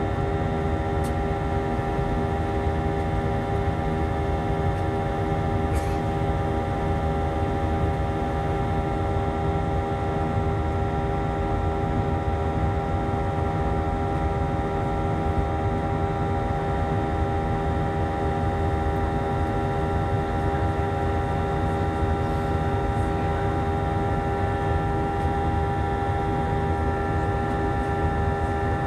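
Airbus A319 cabin noise in the climb after takeoff: a steady engine drone with several steady whining tones over a low rumble.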